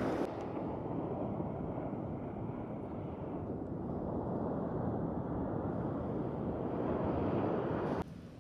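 Wind buffeting the microphone over the wash of surf, a steady low rumbling noise that drops off suddenly near the end.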